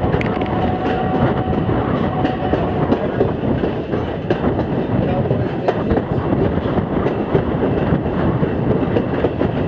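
Steam-hauled passenger train rolling along, heard from aboard: a steady rumble of wheels on the rails with scattered clicks and clacks.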